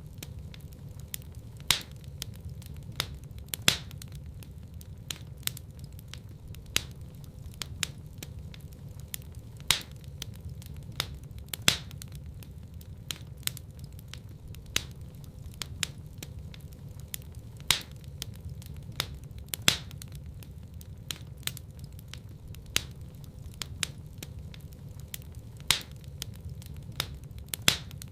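Wood fire burning in a fireplace: a steady low rumble under irregular crackling, with a few sharper, louder pops every several seconds.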